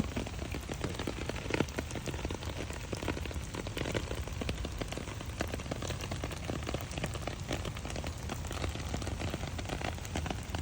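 Steady rain falling, a dense patter of many small drop ticks.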